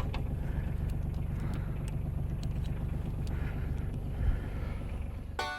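Tractor engine running steadily, with a few light clicks and rattles, cut off abruptly near the end by banjo music.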